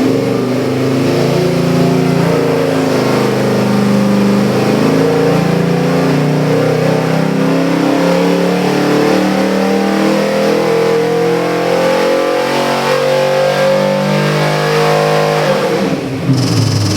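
Ford 347 stroker small-block V8 crate engine, with Fi-Tech fuel injection, running steadily at idle, its pitch drifting slightly. The engine sound drops away near the end as it is shut off.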